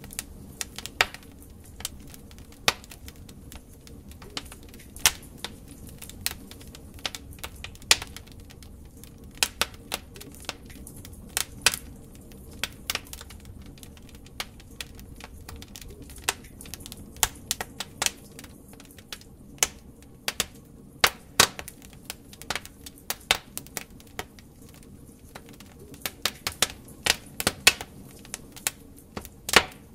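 Wood fire burning in a fireplace: irregular sharp crackles and pops from the logs, coming in scattered clusters over a steady low rush of flame.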